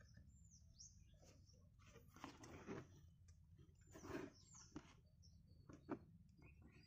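Near silence with faint, high bird chirps, a few soft rustles and knocks from handling, and one sharper click near the end.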